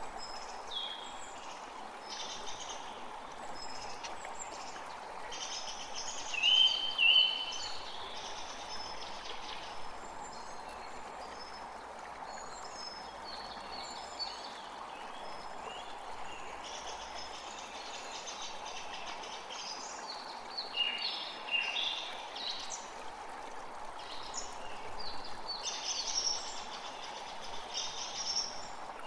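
Several birds chirping and singing over the steady rush of running water. The birdsong is loudest in two short bursts about a quarter of the way in, and it picks up again in the last third.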